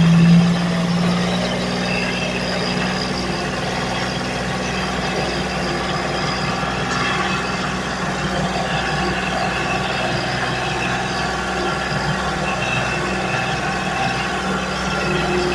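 Vehicle engine running at a steady, low speed, heard from on board, with a constant low hum.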